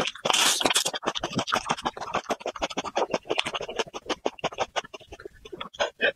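Close-up chewing of raw garlic cloves: a rapid, irregular run of crunches and wet mouth clicks, with a short hiss near the start.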